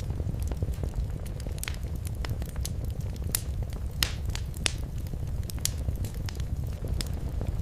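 Wood fire crackling and popping in a fireplace, with irregular sharp snaps over a steady low rumble of the flames.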